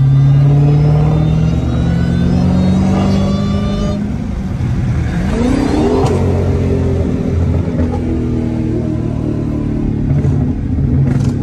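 Dodge Challenger Hellcat's supercharged 6.2-litre Hemi V8 accelerating hard, its pitch climbing in steps over the first few seconds. About halfway through, the note drops and sweeps up again before settling.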